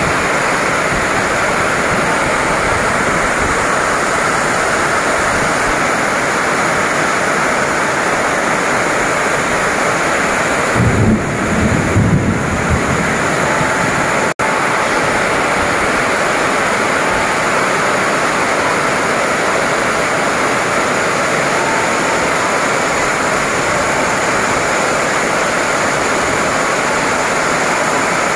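Heavy tropical downpour: a loud, steady hiss of rain pelting the platform, canopy and tracks, with a short low rumble about eleven seconds in.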